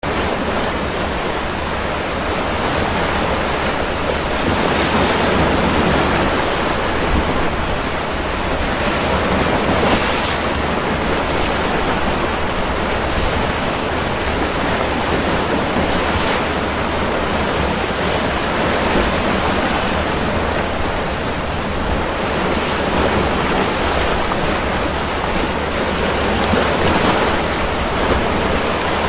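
Rough sea surf under strong wind, a loud continuous rush of waves with wind buffeting the microphone, swelling every few seconds as waves break. The rough water and wind are the sign of a depression over the sea.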